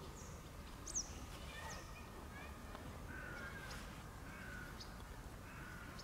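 Faint outdoor ambience of small birds calling: scattered short, high chirps and a few brief warbled notes over a low, steady rumble. The loudest is a sharp falling chirp about a second in.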